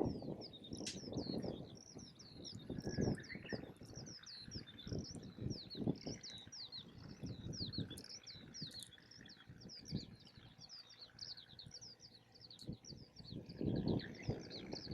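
Small birds chirping without pause, many quick downward chirps overlapping, over gusty wind rumbling on the microphone and an occasional crackle from the campfire.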